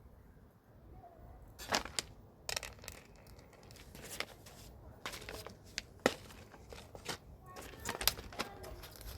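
Irregular crinkling and rustling with sharp crackles, from hands handling materials while planting beans into the planter, starting about a second and a half in.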